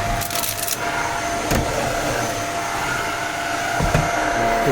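Shark stick vacuum cleaner running steadily, its motor giving a constant whine over the rush of air, with a few short knocks as the head works the stair carpet.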